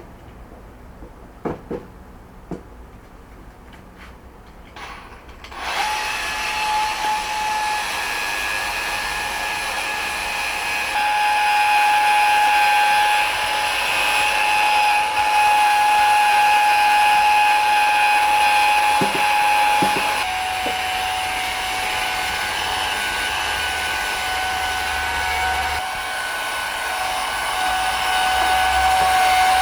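A few sharp clicks, then about six seconds in a handheld electric power tool starts and runs steadily with a held whine. Its level and pitch shift a few times as it works.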